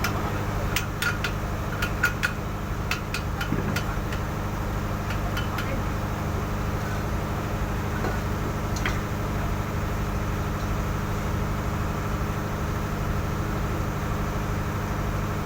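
Ship's dynamo (generator) and its drive engine running with a steady drone. A run of sharp metallic clinks and taps sounds over it during the first six seconds, then only the steady running is left.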